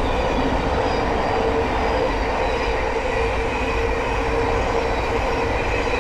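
Thameslink Class 700 electric multiple unit passing at speed: a loud, steady rush of wheels on rail with a steady electric whine over it.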